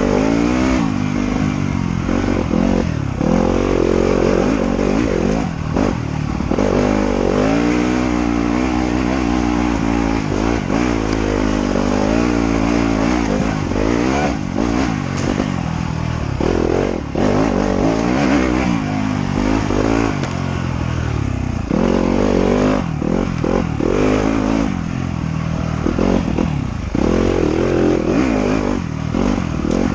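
Trail motorcycle engine ridden hard, its pitch climbing under throttle and dropping off again and again.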